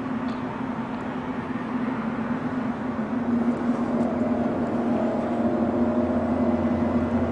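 Steady low droning hum with several held tones, a deeper layer joining about four seconds in: an unexplained 'sky trumpet' hum heard from the sky.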